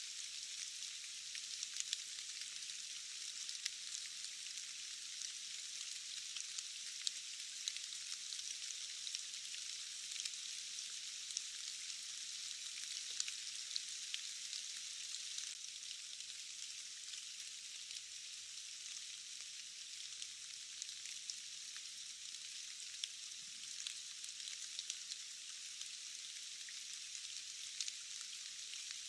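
Steady rain, a thin even hiss with no low end, dotted with scattered sharp ticks of individual drops.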